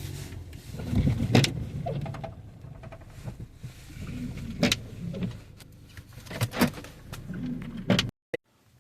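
Inside a car: a steady low rumble with several sharp knocks and clicks, one every second or two, cutting off abruptly near the end.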